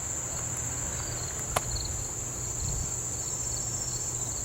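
Insects trilling steadily in one continuous high-pitched drone, with a single sharp click about a second and a half in.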